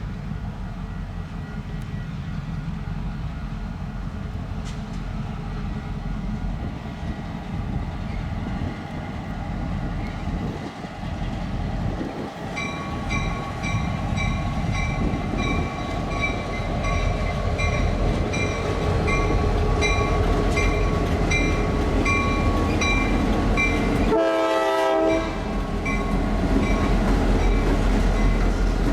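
Diesel locomotives (F40s working with slugs) rumbling as the train approaches. A grade-crossing bell starts ringing about halfway through and keeps a steady ding, and the locomotive horn sounds a blast of about a second near the end.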